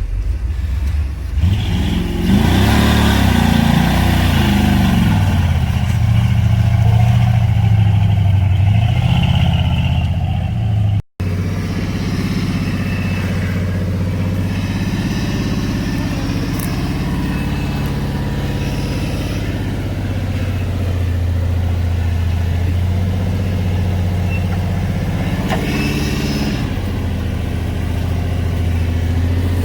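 Off-road vehicle's engine revving up and down about two seconds in, then running steadily under load. The sound breaks off for an instant near the middle, and there is another short rev near the end.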